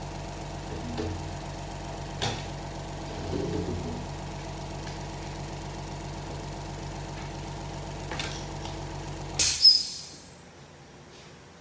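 A shop air compressor running steadily, then cutting out about nine and a half seconds in with a short loud burst of hiss as it unloads. A few sharp metallic clinks of parts or tools on the bench come earlier.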